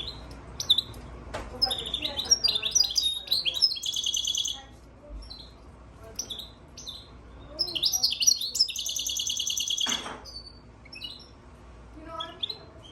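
European goldfinch × Timbrado canary hybrid singing: varied high chirps broken by two long, fast trilled phrases, one about two to four seconds in and one around eight to ten seconds in.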